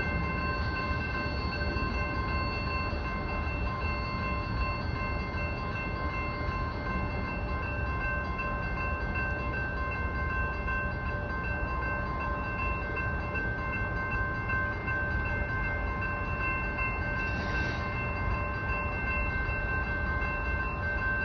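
Union Pacific oil train standing on the track: a steady low rumble with several constant high whining tones over it, unchanging throughout.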